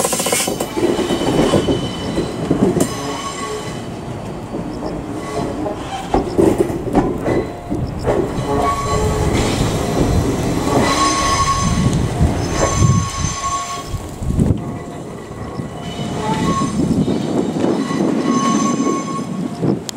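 Train rolling slowly over yard tracks: a steady rumble with wheels clacking over rail joints and thin, high squeals that come and go.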